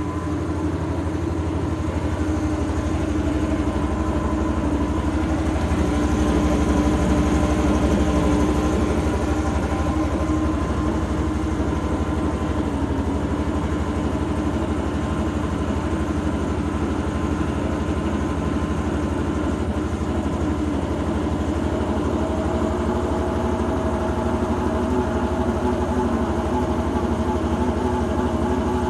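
Electrolux Turbo 13 kg top-loading washing machine running with a steady mechanical drone and a fast, even low rumble: the strange noise its owner is worried about.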